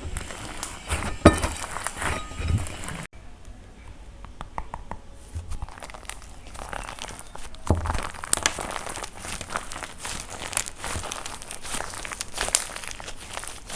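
Dry plaster clay being cracked and crumbled: a dense run of crunchy crackles and snaps. An abrupt cut about three seconds in is followed by a few quieter seconds before the crackling builds again.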